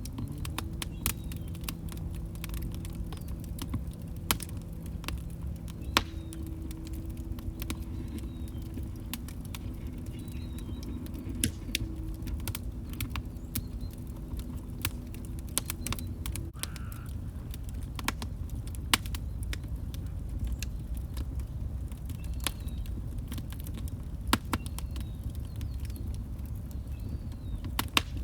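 Wood log fire crackling, with irregular sharp pops and snaps over a steady low rumble of burning. A steady low hum runs underneath for the first half and cuts off suddenly about 16 seconds in.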